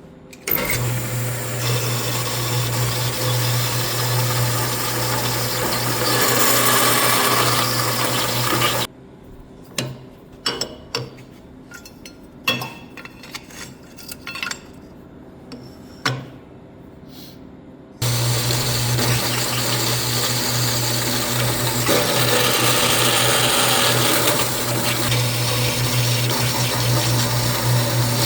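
A power saw running as aluminium square tube is cut into 45-degree miters, in two long runs. Between the runs, about nine seconds of scattered light knocks and clicks.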